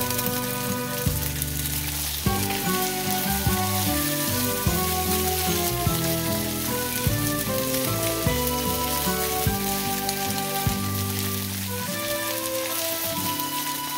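Scrambled eggs frying and sizzling in a pan as they are stirred, with background music of changing notes and a bass line playing over it.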